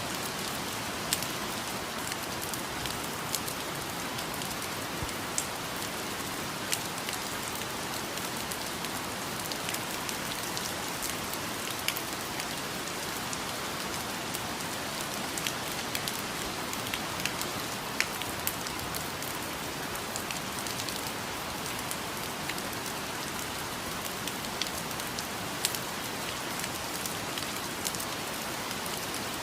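Steady rain falling in a rainforest, a constant hiss with scattered louder drops ticking close by.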